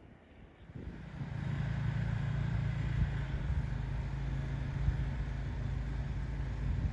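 A motor vehicle's engine running, rising about a second in and then holding steady with a low hum.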